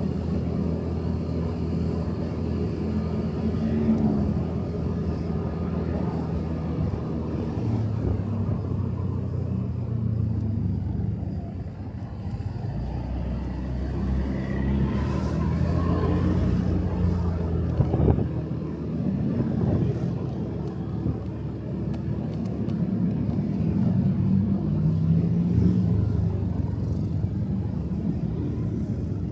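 Motorcycle engine running while riding, its pitch rising and falling with the throttle, over road and wind noise.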